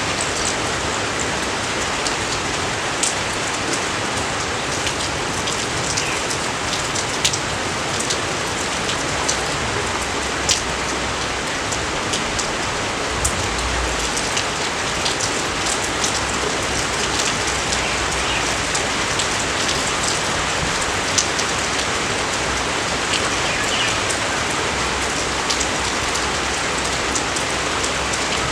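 Steady rain falling, a constant hiss with many sharp individual drop hits scattered through it.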